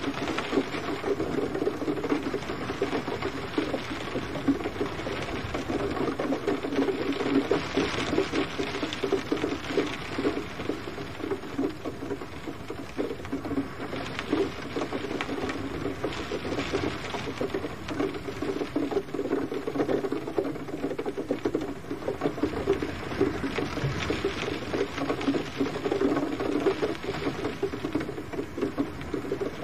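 Steady gentle rain: a dense, even pattering of many small drops with no thunder.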